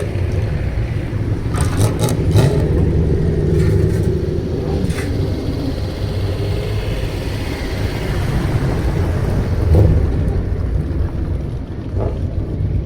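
Old Nissan Skyline's loud aftermarket exhaust running with a steady, deep rumble, a few short sharp cracks in the first few seconds.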